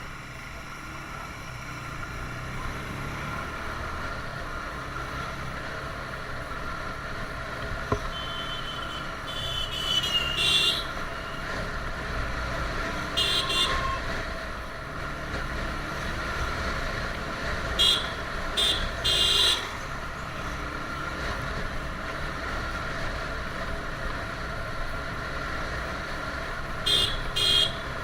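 Motorcycle ride on a TVS Apache RTR 160: the single-cylinder engine drones steadily under wind and road noise. Vehicle horns honk in short bursts four times, twice in quick pairs.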